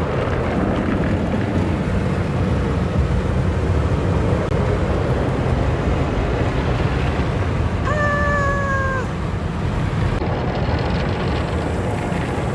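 Automatic car wash machinery running over the car, a steady dense rush of spray and scrubbing heard from inside the cabin. A short, slightly falling tone lasts about a second, about eight seconds in.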